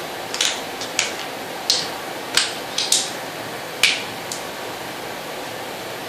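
Checkers pieces being set down on a board: a quick series of about ten sharp clicks, some in pairs, stopping about four seconds in, over a steady hiss.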